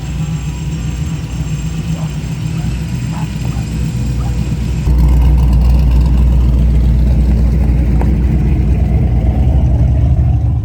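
Car engine running with a deep, loud rumble, jumping louder about five seconds in and staying there.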